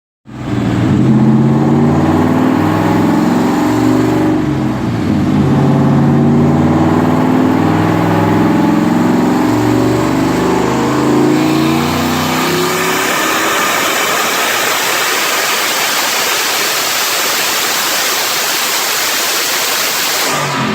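A 2002 Mustang GT's turbocharged 4.6 L two-valve V8 running and being revved, its pitch stepping up and down. About twelve seconds in, the engine note fades under a loud, steady hiss.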